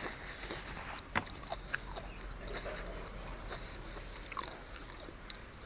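Close-up chewing of a mouthful of seafood papaya salad, with scattered crackly clicks.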